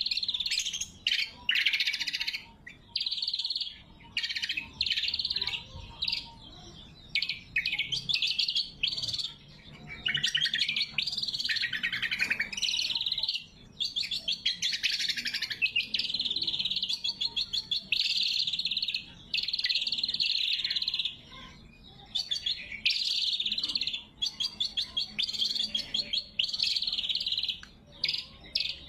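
Greater green leafbird (cucak kombo) singing a continuous, varied song of high chattering phrases and fast trills, broken by short pauses.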